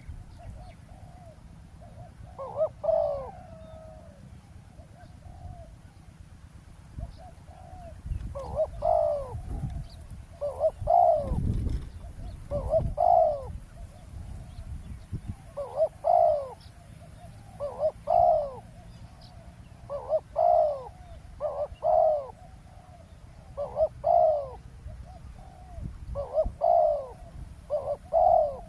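Spotted dove cooing, the same short coo phrase repeated about every two seconds.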